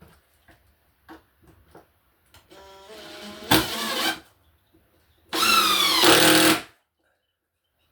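Power drill driving screws twice: the first run speeds up with a rising whine, and the second, louder run drops in pitch as the motor slows under load while the screw pulls in. A few faint clicks come before.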